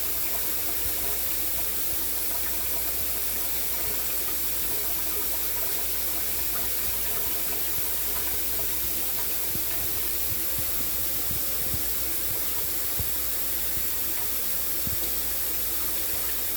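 Shower running in a steady hiss of spray.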